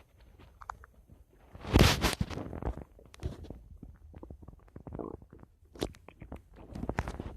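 Human stomach gurgling and rumbling: one loud gurgle about two seconds in, then a run of many small, irregular bubbling clicks and gurgles.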